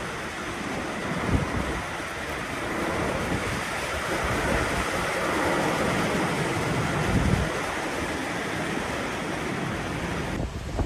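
Strong storm wind gusting and buffeting the microphone with a rough, rushing noise.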